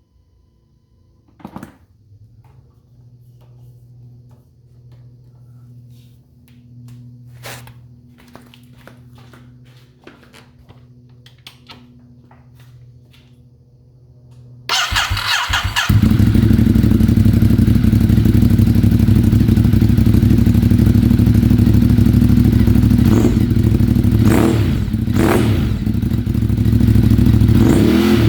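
Ducati Monster 821's 821 cc L-twin engine: first a quiet steady hum with scattered clicks, then about halfway through the starter cranks briefly, the engine catches, and it settles into a steady idle.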